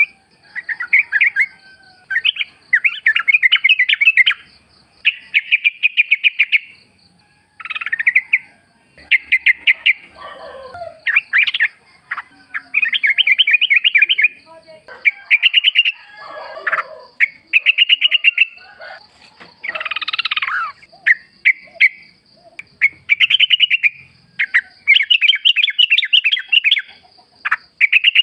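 Yellow-vented bulbul (trucukan) singing: loud, rapid, bubbly phrases about a second long, repeated one after another with short gaps. A faint steady high tone runs underneath.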